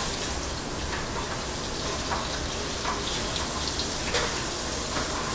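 Cooking grease bubbling and sizzling in a pan with a steady hiss and scattered small crackles, still coming up to frying temperature.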